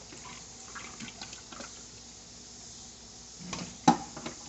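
Salt-water brine being poured off chicken thighs in a bowl: a faint trickle with a few small splashes, then a sharp knock just before the end.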